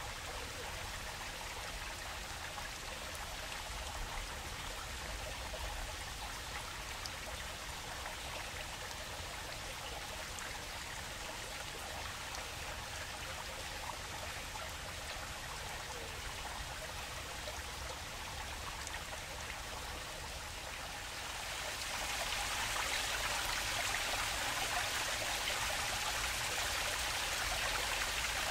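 Water flowing in a stream, a steady rushing and trickling. About 21 seconds in it grows louder and brighter and stays so.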